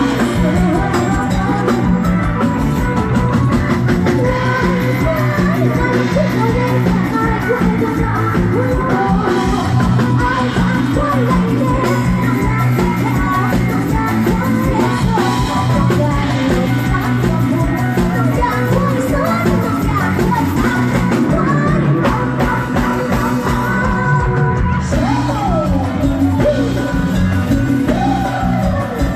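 Live band music with a singer over a steady drum beat.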